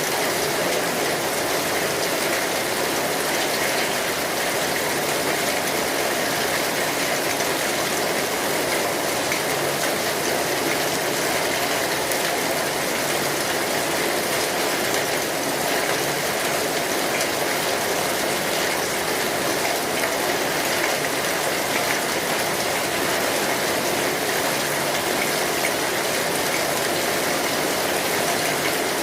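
Steady rainfall, an even hiss of many drops that does not change.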